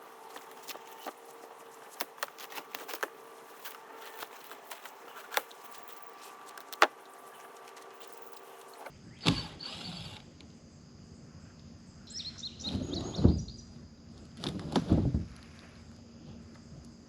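Scattered sharp clicks and taps, then a few heavy thumps with scraping, about nine seconds in and twice more later: a wooden shipping crate being pried apart and its panels handled.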